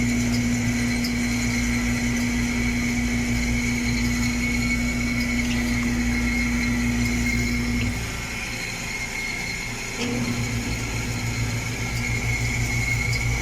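Washing machine motor running with a steady hum during a test run after a pulsator gearbox replacement; it cuts out about eight seconds in and starts again about two seconds later.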